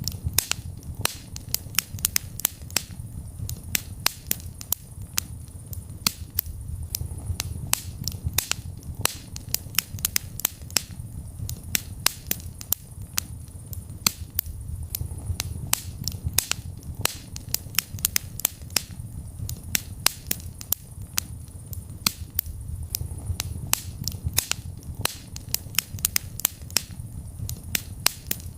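Wood fire burning in a fireplace: a steady scatter of sharp crackles and pops, several a second, over a low soft rumble of the flames.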